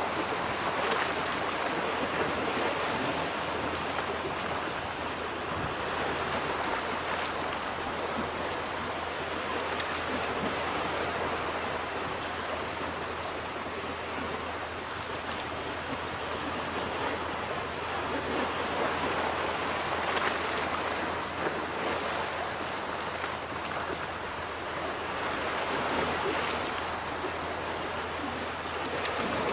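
Ocean surf breaking on a beach: a continuous wash of waves that swells and eases as each wave comes in every several seconds.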